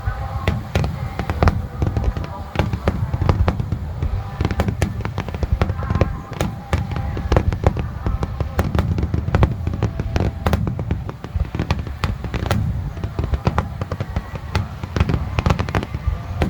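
Large aerial fireworks display going off: many sharp bangs and crackles in quick succession, several a second, over a continuous low rumble.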